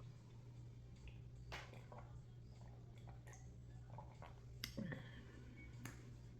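Near silence: a steady low hum with a few faint clicks.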